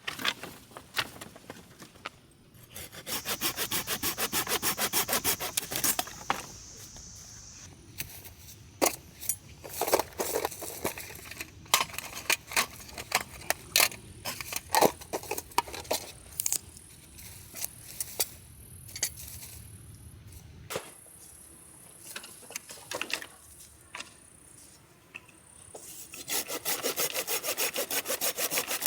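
A Silky Gomboy folding hand saw cutting wood in quick, even strokes, in two spells: one of a few seconds near the start and another near the end. Between them come scattered sharp knocks and snaps of wood being handled.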